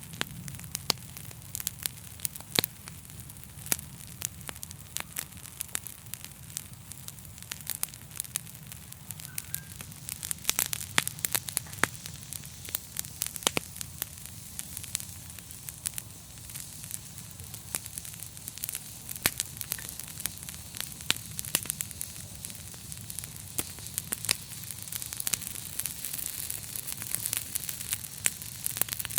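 Fire crackling: frequent sharp pops and snaps over a steady low rumble and a soft hiss.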